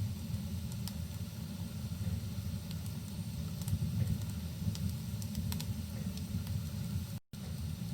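Wood fire crackling, with scattered sharp pops and snaps over a steady low rumble of rain and fire. The sound cuts out completely for a split second near the end.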